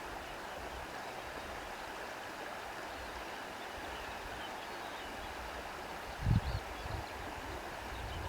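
Steady rushing wind with faint, sparse bird chirps high above it, and a brief low rumble of wind buffeting the microphone about six seconds in.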